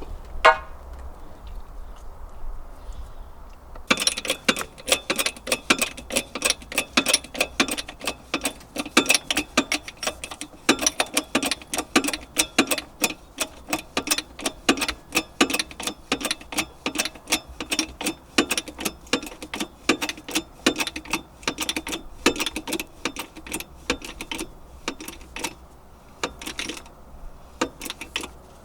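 Hammer blows on the steel edge of a bent agricultural disc being straightened: one ringing strike at the start, then from about four seconds in a long, steady run of sharp metallic strikes, about three to four a second. A low steady hum runs underneath.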